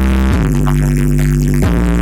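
Electronic music with heavy bass played loud through big sound-system speakers for a sound check. Sustained chords change twice.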